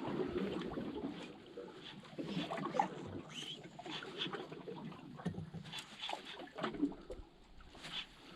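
Small water sounds lapping and trickling among shoreline rocks, with scattered light clicks and crackles.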